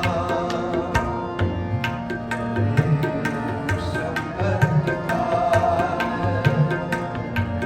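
Tabla playing a quick, steady rhythm with deep bass-drum strokes, over held, sustained tones: the accompaniment of a shabad being performed.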